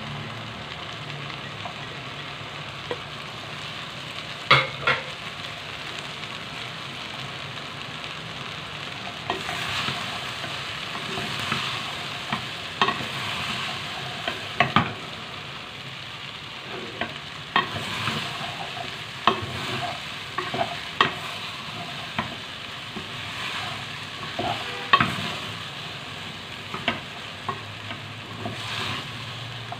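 Chopped okra sizzling as it fries in oil with onion-tomato masala in a metal pot, while a spoon stirs it and clinks against the pot at irregular intervals.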